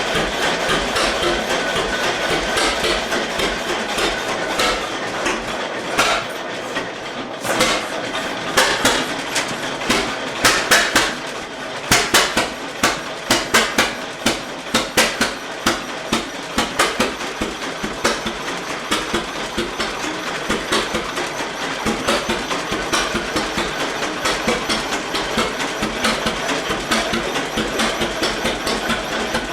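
1919 Eagle 12-22 tractor's two-cylinder engine running, its exhaust firing in an even, pounding beat. About seven seconds in the beat dips briefly, then comes back as a stretch of louder, sharper, more uneven bangs for several seconds before settling into the steady rhythm again.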